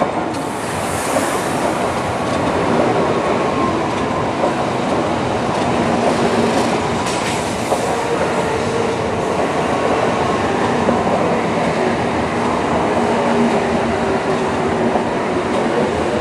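N700 series Shinkansen train running past at close range as it arrives at a station: a steady, loud running noise of wheels on rails, with faint steady humming tones.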